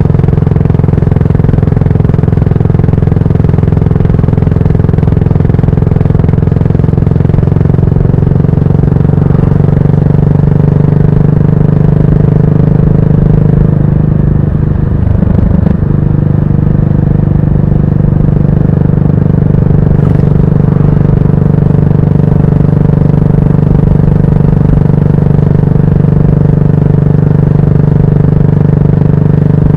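Yamaha SR400's air-cooled single-cylinder four-stroke engine running steadily through an aftermarket tapered-cone muffler while riding. About halfway through, the engine note briefly dips and wavers, then settles back to a steady pull.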